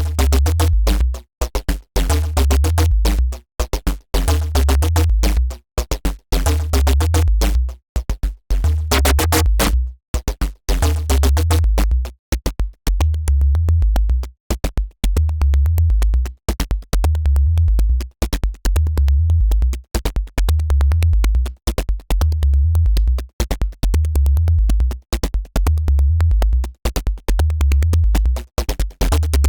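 Dirty FM synthesizer bass riff patched in Bitwig Polygrid, looping a repeating one-bar phrase at 140 bpm over fast ticking drum-machine percussion. The gritty upper part of the bass thins out about twelve seconds in, as the patch is tweaked.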